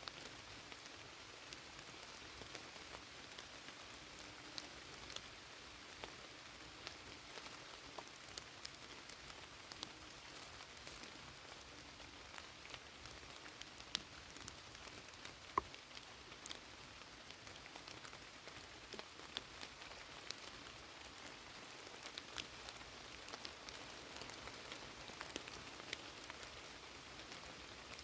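Rain falling: a steady hiss with many sharp drop ticks scattered through it, one louder tick about halfway.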